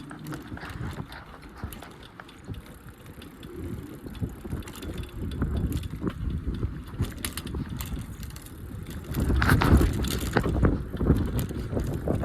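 Bicycle being ridden, its parts rattling and clicking over a low rumble, louder from about nine seconds in.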